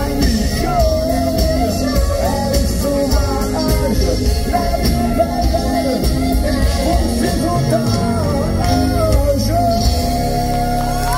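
Live pop-rock band playing: a lead melody line with bends and a long held note near the end, over bass and drums.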